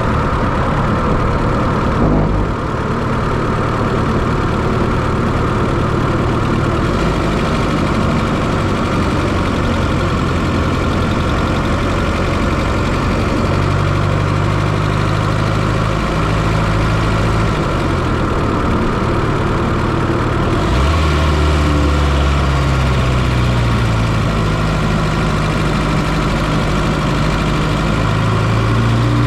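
1995 Fiat Coupe's turbocharged 2.0 16-valve engine running steadily, heard up close from inside the engine bay. Its low drone shifts in pitch a few times, about halfway through and again about two-thirds in.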